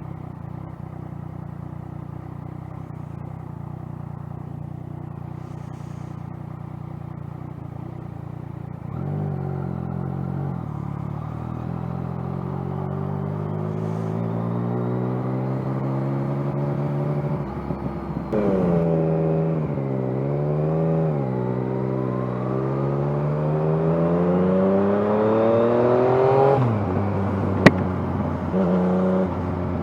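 Yamaha FZ-09 inline three-cylinder engine idling steadily, then pulling away about a third of the way in, its pitch rising through the gear. After a shift a little past halfway it winds up again, and the throttle closes near the end, followed by one sharp click.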